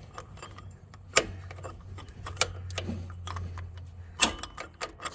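Scattered sharp metallic clicks and clinks, a few strong ones about a second apart, from an oil filter wrench on socket extensions being worked to crack loose the oil filter of a Polaris Sportsman 450 ATV. A low hum runs underneath.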